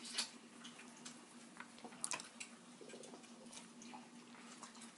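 Faint eating sounds: scattered small clicks and smacks of chewing and handling chicken wings.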